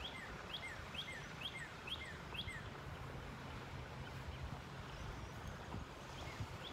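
A bird calling over and over: short falling chirps, about two a second, over a steady outdoor hiss.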